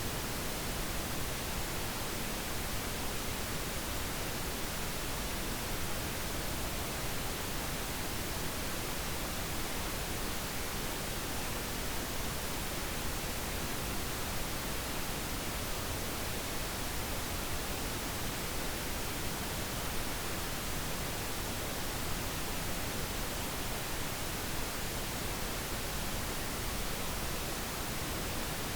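Pink noise: a steady, even hiss with no changes or events, generated for sleep.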